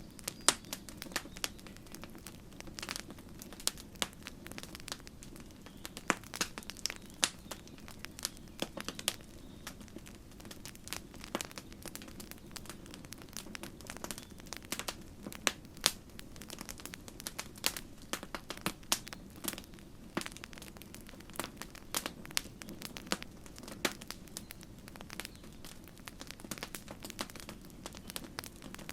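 Wood campfire crackling: irregular sharp snaps and pops, several a second, over a steady low rush of the burning fire.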